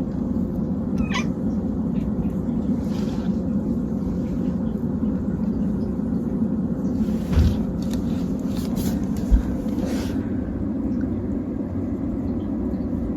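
A domestic cat making a short, high, rising squeak about a second in, with a few fainter squeaks later, over a steady low hum. Two brief low thumps come in the second half.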